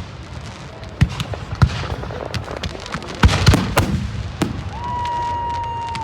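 Fireworks going off: a run of sharp bangs and cracks, loudest and thickest about three seconds in. Near the end a steady high whistle holds for about a second.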